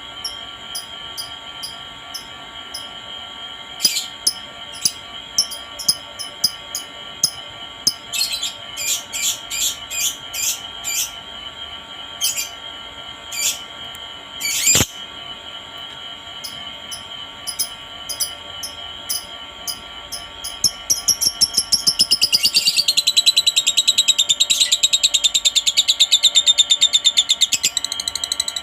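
Lovebird calling: scattered sharp, high chirps, then from about two-thirds of the way in a fast, unbroken trilling chatter that runs on, over a steady high tone.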